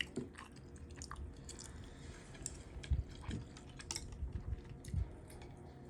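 A person chewing and biting food close to the microphone, with irregular short clicks and soft low thumps.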